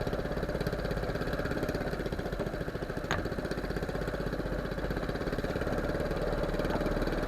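A small fishing boat's engine running steadily at low speed, with a single brief click about three seconds in.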